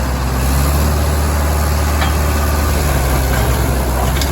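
Mahindra tractor's diesel engine running steadily with a heavy, low hum.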